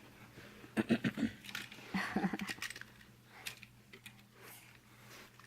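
Toy blocks clicking and knocking lightly as they are handled, with a couple of short vocal sounds about a second and two seconds in.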